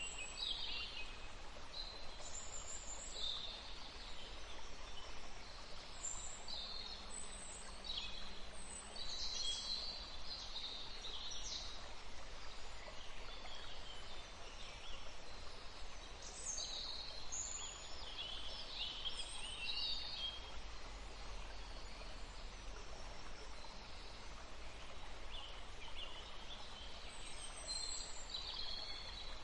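Several songbirds singing and chirping in short phrases, one after another, over the steady rush of a forest stream.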